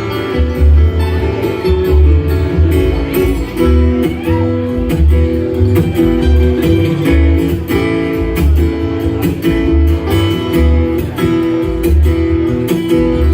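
Live bluegrass band music: a flatpicked acoustic guitar plays a run of notes over steady upright-bass-style low notes at about two a second.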